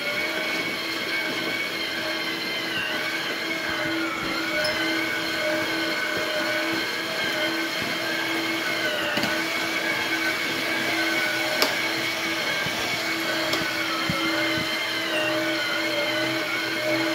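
Small electric motors and gearing of RC construction models whining steadily. The pitch dips and wavers slightly, and there is one sharp click about eleven and a half seconds in.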